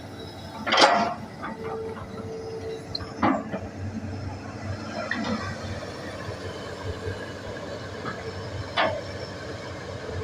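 Hitachi hydraulic excavator working: its engine runs with a steady low hum, broken by short sharp hits from the bucket and arm, the loudest about a second in and others near three and nine seconds, with a brief steady whine in between.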